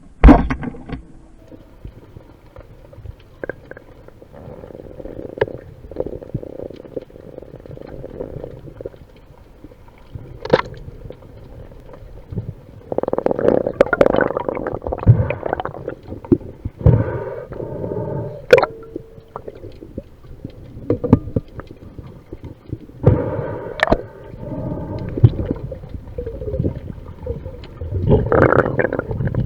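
Underwater sound heard by a submerged camera in storm surge: muffled rumbling and gurgling of moving water and bubbles, swelling in waves, with several sharp knocks.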